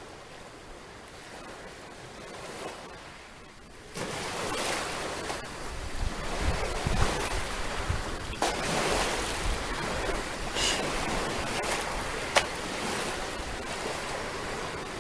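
Sea waves breaking on the shore: a quieter wash for the first few seconds, then a wave breaks about four seconds in and the surf goes on hissing, with a few sharp clicks in it.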